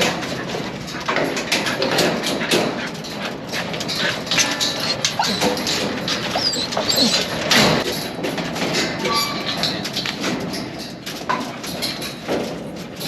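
Cow dogs whimpering and stirring, among scattered short scuffs and rustles.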